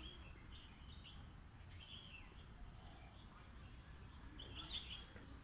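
Faint birds chirping in three short spells over quiet outdoor background noise.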